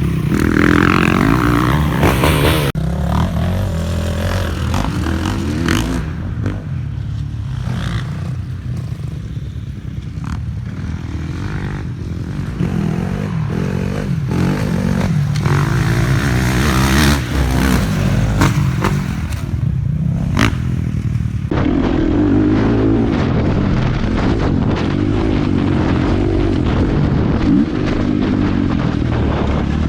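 350cc four-stroke motocross bike engine being ridden, its revs repeatedly rising and falling. About two-thirds of the way through it switches to a different recording of a bike running.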